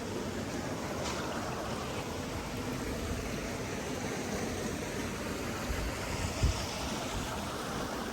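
Steady rushing noise of flowing water, with a single low thump about two-thirds of the way through.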